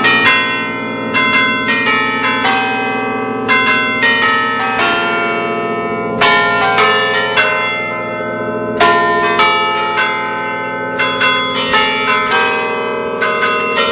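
A peal of nine bronze church bells in B-flat, cast in 1931, rung by hand in a festive 'allegrezza'. Quick clusters of strikes form melodic phrases about every two to three seconds over the bells' ringing hum.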